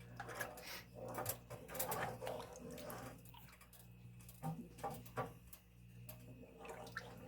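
Faint kitchen room tone: a steady low electrical hum with a few light scattered clicks and taps.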